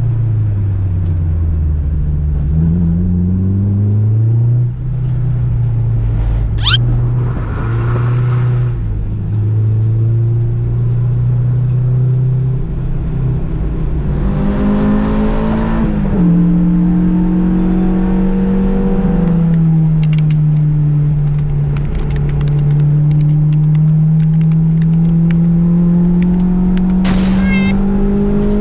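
Honda Civic's engine running on a race track, its pitch slowly falling and rising with speed, dropping quickly near the end at a gear change. A brief, sharp rising whistle comes about seven seconds in.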